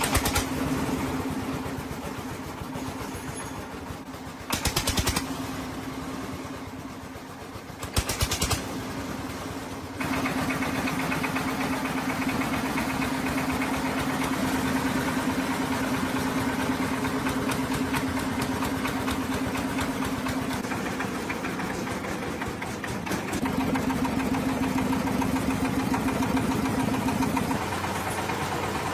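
A diesel engine running, with two short, louder rattling bursts in the first half. From about ten seconds in it runs steadier and louder.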